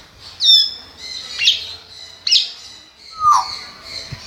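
Parrot giving four short, shrill calls about a second apart, each sliding down in pitch.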